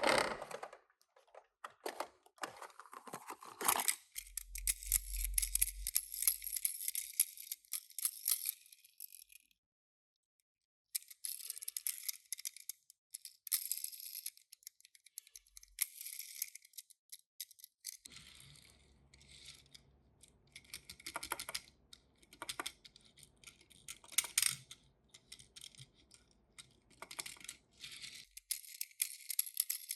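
Handling of Tomica die-cast toy cars and their packaging: plastic crinkling in long stretches, broken by sharp clicks and light rattles of small metal cars against plastic.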